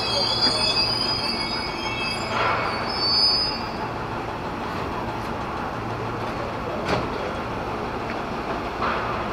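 Electric commuter train, an ex-Tokyo Metro 6000 series, rolling slowly into the station. Its wheels squeal in thin high tones for the first few seconds, then it runs on with a steady low hum and a few light knocks.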